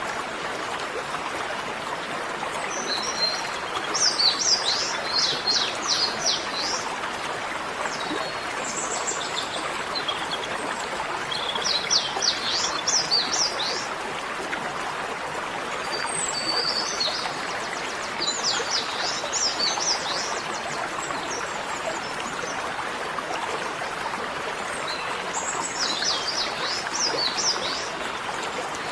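A small songbird singing four short bursts of rapid, high chirping notes, several seconds apart, over a steady rushing hiss.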